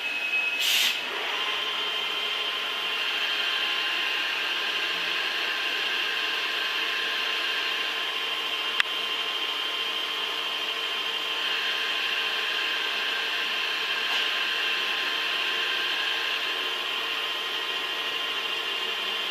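Machine tool running steadily during machining, with a steady high whine and several lower steady tones. A short, loud noisy burst comes about a second in, and a single sharp click about nine seconds in.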